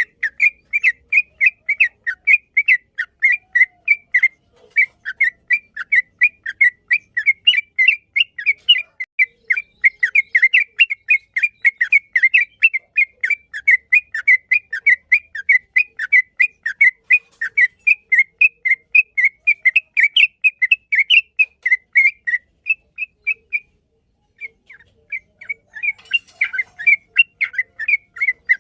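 Yellow-vented bulbul (trucukan) singing a long, rapid chatter of repeated chirpy notes, about four or five a second, with a brief lull near the end before it starts again.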